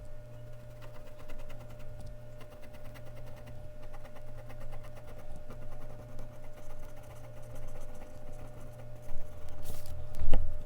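Mechanical pencil lead scratching on Bristol paper in rapid, even back-and-forth shading strokes, over a steady low hum. Near the end comes a louder rustle and a sharp knock.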